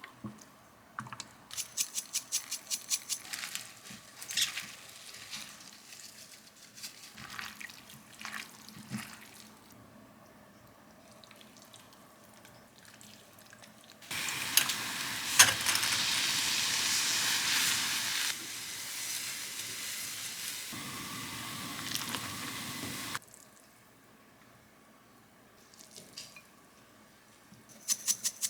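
Scattered light clicks and taps of kitchen handling, then a kitchen tap running as a steady rush of water for about nine seconds. The flow drops to a lower level about halfway through, then cuts off.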